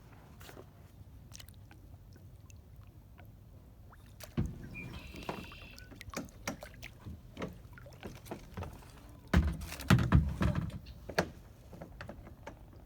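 Hollow knocks and bumps from a small paddled boat being handled, scattered from about four seconds in and loudest in a cluster between about nine and eleven seconds. A short bird call sounds just after five seconds.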